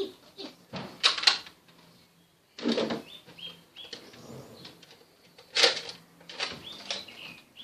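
A small bird chirps repeatedly in short high notes. Several loud, sudden noises come in between: two about a second in, a longer one near the middle, and another about two-thirds of the way through.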